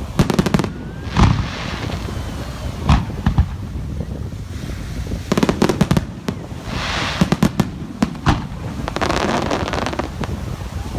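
Aerial fireworks exploding in quick clusters of sharp bangs, some followed by a crackling shower.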